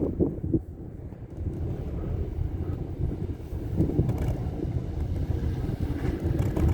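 Wind buffeting the microphone on an open chairlift, heard as a steady low rumble with fluttering gusts.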